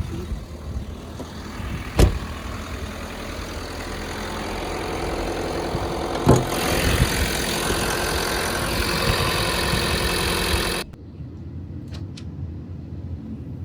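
Car engine running steadily, with two sharp knocks about two and six seconds in and a hiss that builds up. Near the end the sound drops abruptly to a quieter low hum.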